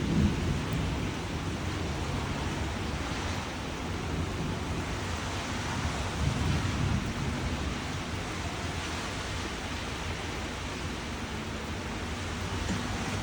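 Steady rain falling, a continuous hiss, with low rumbles just after the start and again about six seconds in.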